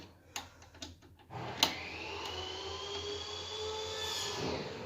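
A few light clicks, then a small motor whirs for about three seconds with a high whine, starting about a second and a half in with a sharp click and winding down near the end.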